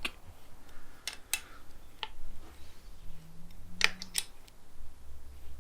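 A handful of sharp, separate clicks and taps from a hand tool on metal as the pump's housing plate bolts are tightened a little at a time in turn.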